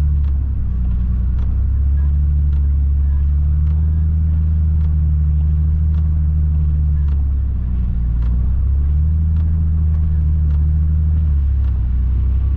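Nissan 300ZX engine droning at low, steady speed, heard from inside the cabin, its pitch easing down and back up a couple of times. Faint ticks recur every half second or so.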